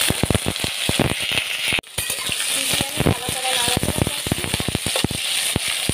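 Cucumber pieces sizzling as they fry in hot oil with mustard seeds in a metal kadai, while a metal spatula stirs them with quick clicks and scrapes against the pan. The sound breaks off briefly about two seconds in.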